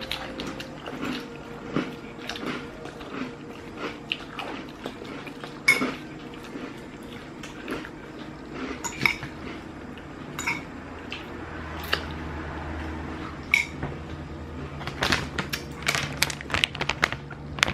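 Cutlery clinking and tapping against a dish while someone eats. There are sharp, ringing clinks every second or few, coming faster near the end.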